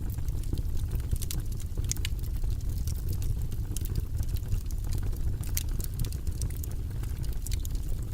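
Fire burning in a fireplace, crackling with frequent irregular sharp pops over a steady low rumble of the flames.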